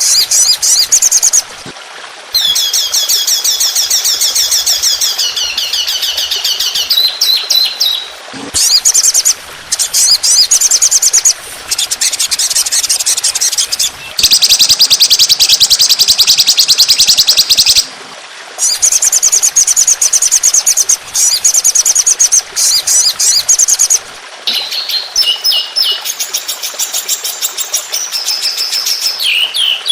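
Songbird song of the kind used as a master recording to tutor caged birds: rapid, high trills in phrases a few seconds long, separated by short pauses. These are the fast 'tembakan' volleys, and the loudest, longest phrase comes a little past the middle.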